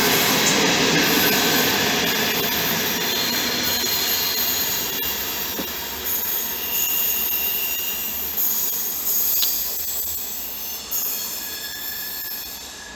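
Passenger train pulling away over the rails, its wheels rolling with thin high squeals that come and go, and a few sharp clicks. The sound fades steadily as the train recedes.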